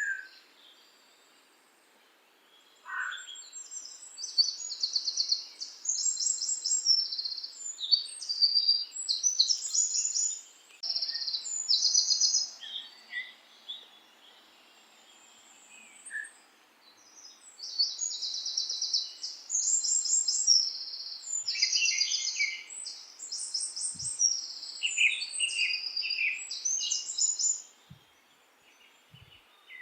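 Songbirds singing in bursts of high, rapid chirps and trills, with short pauses between phrases, over a faint steady hiss.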